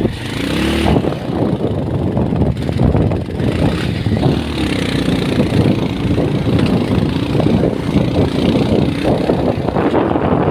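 A motor vehicle's engine running with steady road rumble, its pitch rising and falling slightly.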